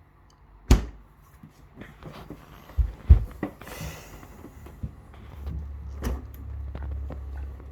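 Freezer compartment of a two-door fridge freezer being opened and its contents handled: several sharp knocks and clunks, the loudest about a second in and about three seconds in, then a low rumble in the last couple of seconds.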